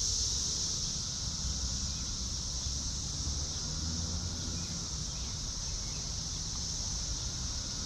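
Steady high-pitched insect chorus, with a low wind rumble on the microphone beneath it.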